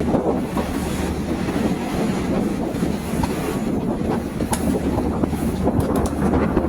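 Train running along the rails: a steady rumble with scattered sharp clicks.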